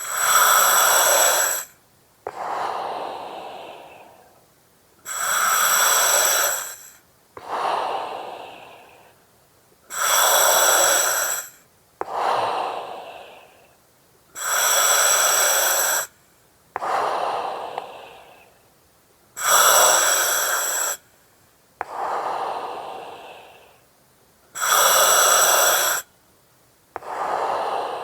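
Slow, regular breathing through an oxygen mask. Each breath is a loud hiss of about two seconds that starts and stops abruptly, followed by a softer breath that fades away. The cycle repeats about every five seconds, six times.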